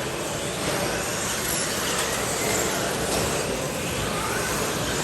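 Radio-controlled stadium trucks racing on a track: a steady wash of motor and tyre noise, with faint whines that rise and fall in pitch as the trucks speed up and slow down.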